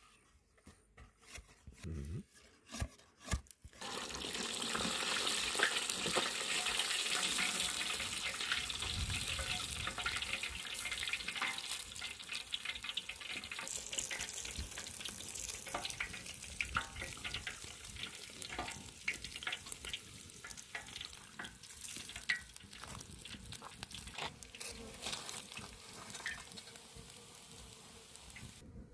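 A few light knocks, then about four seconds in a loud crackling sizzle starts all at once, as fish goes into hot oil to fry. The sizzle slowly dies down.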